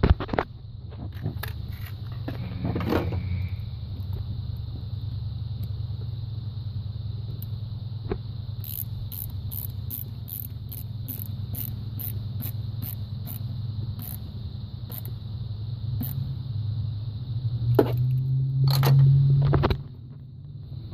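2002 Mitsubishi Galant's engine idling with a steady low hum and a light, regular ticking of about two clicks a second midway. Near the end the engine note swells louder, then drops off suddenly.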